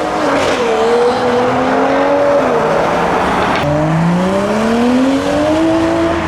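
Modified car engine revving hard under acceleration, the pitch climbing steadily. It drops off about two and a half seconds in and then climbs again, as a car pulls away from the exit.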